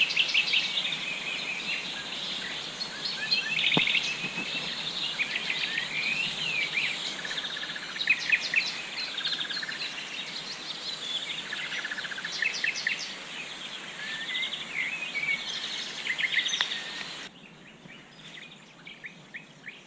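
Several songbirds singing at once in riverside trees in spring: overlapping chirps, trills and whistles over a steady background hiss, which falls away about three seconds before the end.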